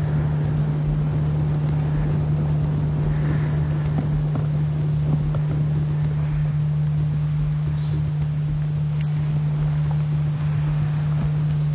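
A steady low drone holding one unchanging pitch, over a patchy low rumble typical of wind on the microphone.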